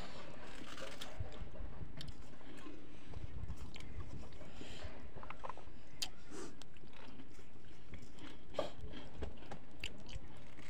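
A man chewing and smacking his lips as he eats rice and fish by hand, with scattered sharp clicks of fingers working the food on a steel plate.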